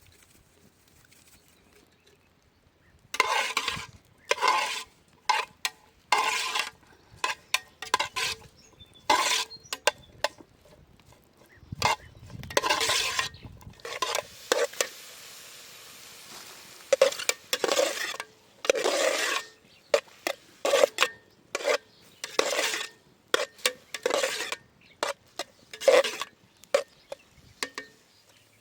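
Repeated irregular scraping strokes of a utensil stirring in a metal pot.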